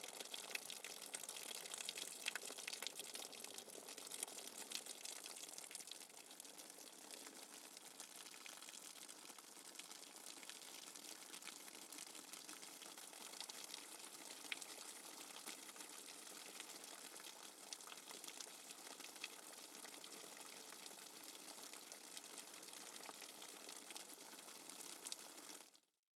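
Faint running water: a steady hiss with fine crackle, a little louder in the first six seconds.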